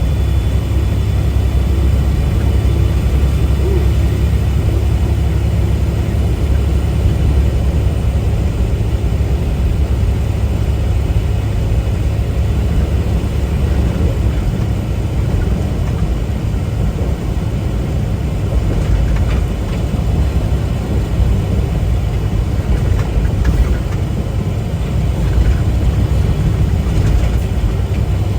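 Steady low rumble of a semi-truck on the move, heard from inside the cab: diesel engine and road noise.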